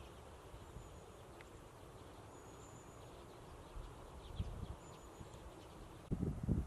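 Faint, scattered high calls from a flock of common redpolls. A low rumble comes in near the end.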